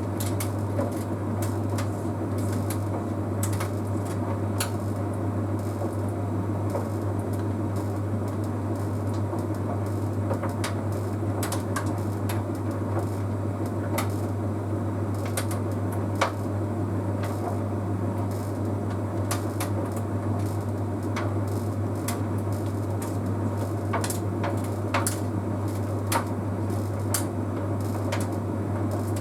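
Bosch Series 6 heat pump tumble dryer running mid-cycle: a steady low hum with irregular light clicks and taps from the load tumbling in the drum.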